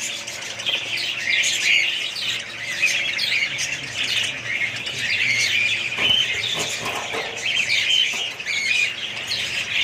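A group of small pet birds chirping and calling nonstop, many short high calls overlapping.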